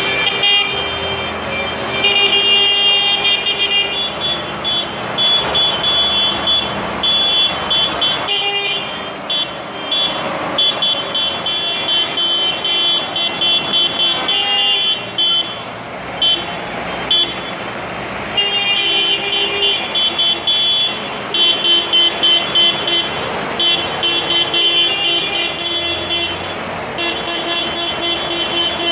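Vehicle horns sounding again and again in short toots and longer blasts, over the steady running of tractor engines.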